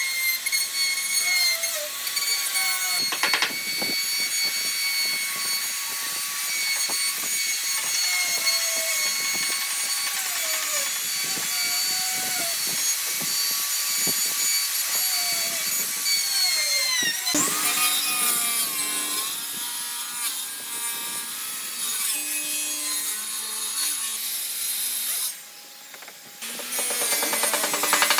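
A power tool running steadily against wood, with a high motor whine. The whine dips in pitch and recovers about seventeen seconds in. The tool goes briefly quiet near the end, then starts up again.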